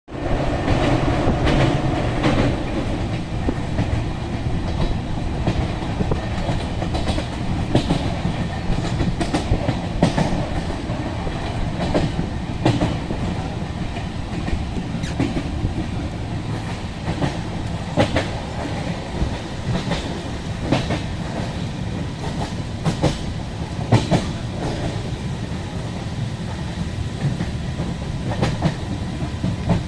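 Passenger train running along the track: a steady heavy rumble with wheels clicking irregularly over rail joints.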